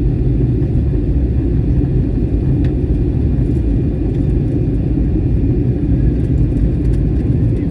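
Airbus A321 cabin noise heard from a passenger seat: a steady low rumble of engines and airflow during the flight's descent.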